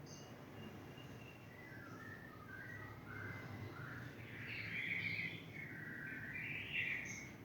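A bird chirping in a run of short, high notes that step up and down, loudest about five and seven seconds in, over a faint steady low hum.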